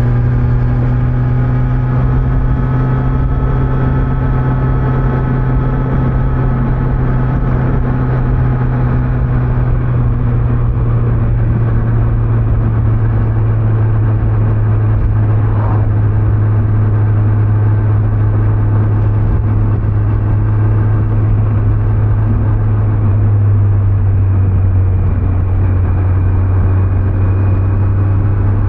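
Kawasaki Z900's inline-four engine running steadily at a cruise on its stock exhaust, over road and wind noise; the engine note eases slightly lower about two-thirds of the way through.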